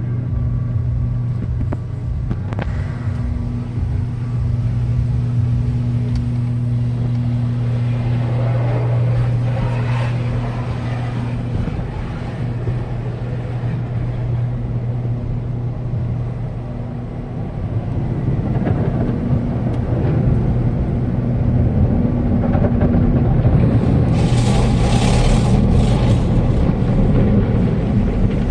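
A car wash running: a steady low mechanical hum and rumble. It grows louder and rougher about two-thirds of the way through, with a few bursts of hiss near the end.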